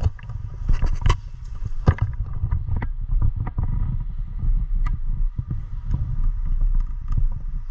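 Low rumble of wind and handling noise on a body-worn action camera, with irregular sharp clicks and crackles scattered through it.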